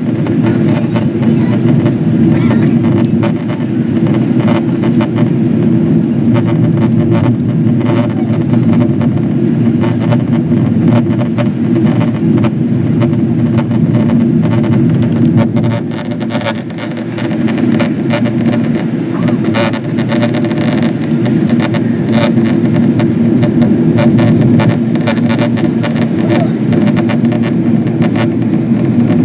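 Steady low drone of a Boeing 777-200ER's cabin in descent, airflow and engine noise, with many small clicks and rattles throughout. The drone dips briefly about halfway through.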